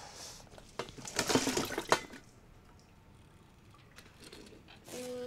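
Water splashing into a sink for about a second as a pot of pasta is drained, with pasta lost down the drain. A steady low buzz starts just before the end.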